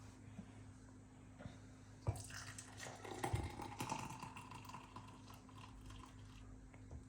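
Kitchen handling sounds: a knock about two seconds in, then a couple of seconds of small clicks and clatter as utensils and a glass are handled.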